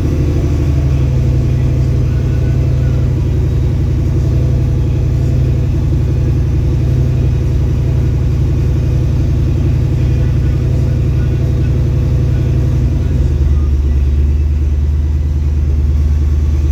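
Recovery vehicle's engine running steadily with a low drone while it pulls a mud-stuck tractor out on a 2-to-1 winch line. Its lowest note grows stronger about thirteen seconds in.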